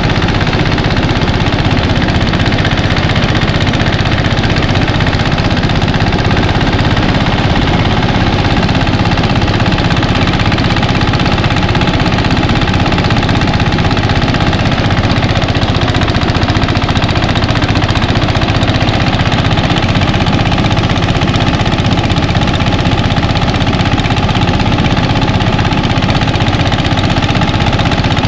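Mini rice thresher running steadily, its engine and threshing drum going without a break.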